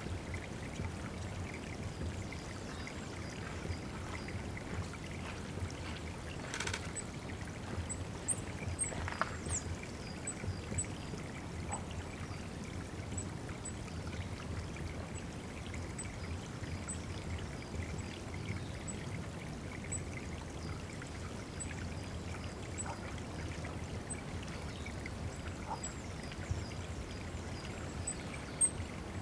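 Steady trickling and splashing of water at a woodland bird water spot. From about a quarter of the way in, a small songbird gives a run of very high, thin, short call notes, roughly one a second. There is one brief knock just before the calls begin.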